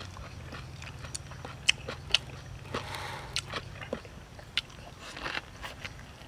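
Someone biting and chewing fresh shrimp spring rolls with lettuce: irregular crisp crunches and wet mouth clicks.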